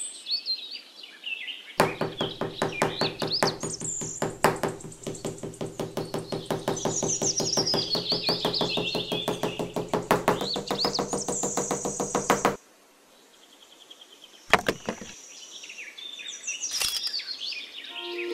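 Fast, even knocking over a steady low hum, which cuts off suddenly about twelve and a half seconds in, with birds chirping over it. Two single knocks follow near the end.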